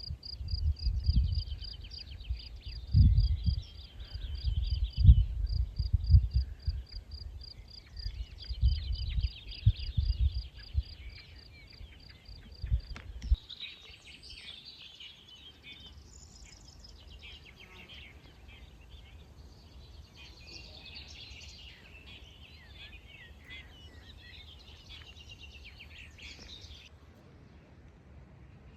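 Wind buffeting the microphone in gusts, with a high, thin note repeated about four times a second through the first half. About halfway, the wind drops and birds sing, varied and twittering, until shortly before the end.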